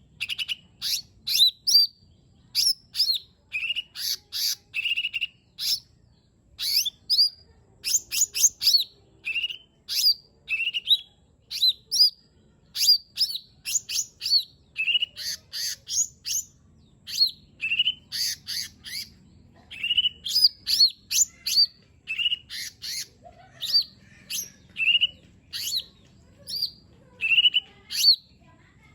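Lesser green leafbird (cucak ijo mini) singing a fast, unbroken run of short sharp chirps and quick whistled slurs, several notes a second.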